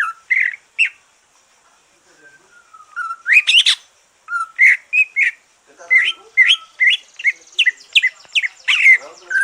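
Greater green leafbird (cucak ijo) singing a run of short, clear whistled chirps and slurred notes. It falls quiet about a second in and resumes with a long rising glide, then a quick string of chirps. The bird has just finished its moult.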